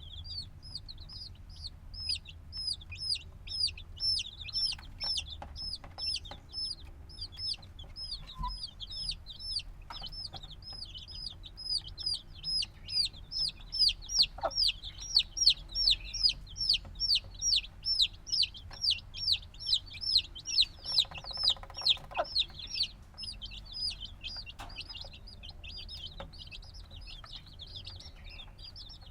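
Chicks only a few days old peeping constantly: a rapid string of high, short, falling peeps, about three a second, growing louder toward the middle, with a few faint clicks among them.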